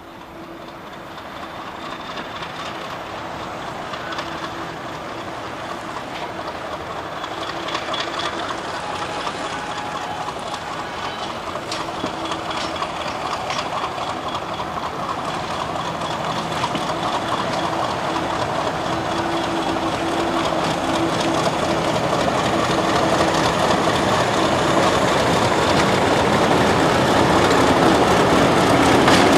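Class 50 diesel-electric locomotive approaching, its English Electric 16-cylinder diesel engine growing steadily louder.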